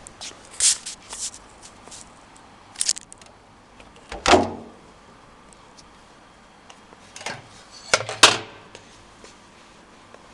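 Handling sounds at a washing machine: a run of sharp clicks and knocks, a heavy low clunk about four seconds in, and two more loud knocks around eight seconds, like a machine door or lid being worked.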